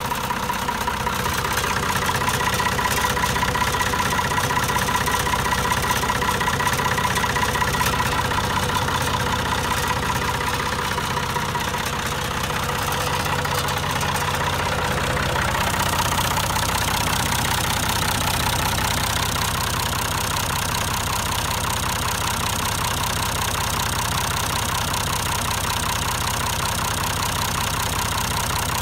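1983 Massey Ferguson 240 tractor engine running steadily, at about idle speed; its tone shifts slightly about halfway through.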